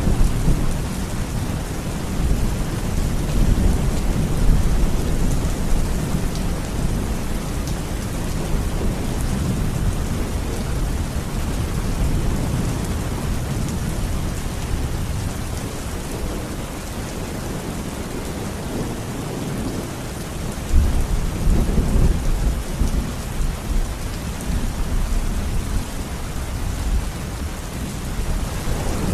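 Heavy rain falling steadily with low thunder rumbling under it; the thunder fades in the first couple of seconds and swells up again about two-thirds of the way through.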